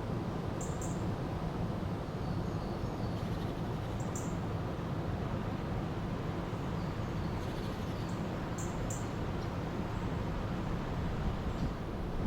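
A river flowing steadily, with birds giving short high chirps every few seconds, a pair of chirps about a second in, another near four seconds and a pair near nine seconds.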